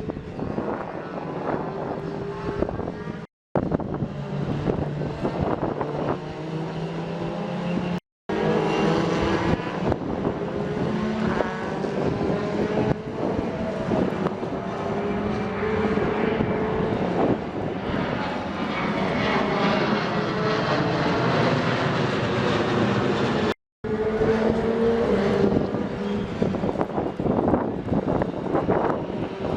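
Racing cars lapping a circuit, their engines rising and falling in pitch as they pass and change gear, with several cars heard in turn. Three brief silences break the sound.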